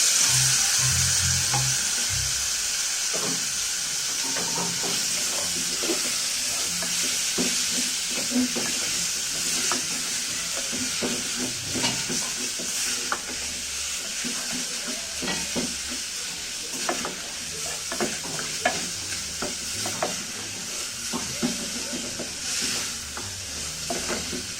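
Meat sizzling loudly as it goes into hot oil with garlic and ginger in a cooking pot. The sizzle eases off gradually while a spoon stirs, scraping and knocking against the pot.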